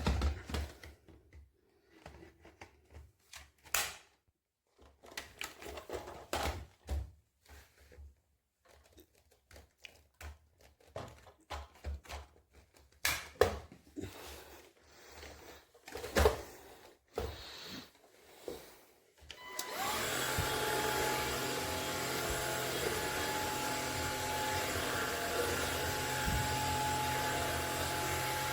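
Scattered clicks and knocks of handling, then, about 20 seconds in, a cordless stick vacuum's brushless motor switches on and runs steadily with a fixed whine.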